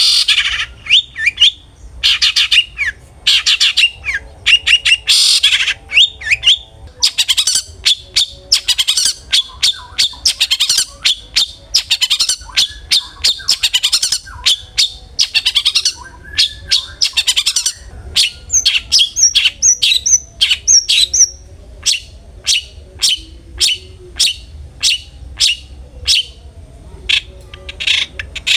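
Long-tailed shrike (cendet) in full song: a dense run of harsh chattering notes and squawks. In the last third it settles into a string of sharp, evenly spaced calls, two or three a second.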